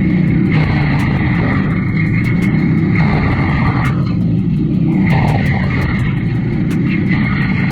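A large machine engine running steadily and loudly under load, with many short sharp ticks over it.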